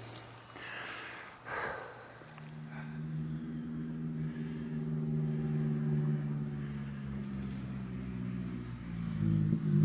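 A motor vehicle's engine approaching at a steady pitch, growing louder and loudest near the end.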